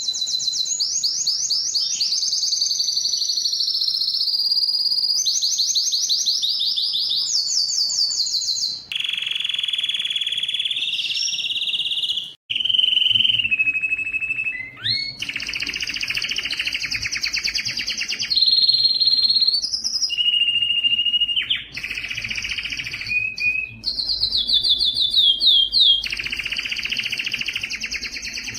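Domestic canary singing a continuous song of rapid trills, each rolled phrase held for a second or two before switching to a new pitch, with a brief break about twelve seconds in.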